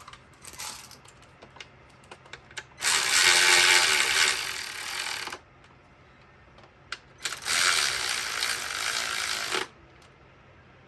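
Ratchet wrench driving a bolt in two runs of fast clicking, each about two and a half seconds long, about three and seven seconds in.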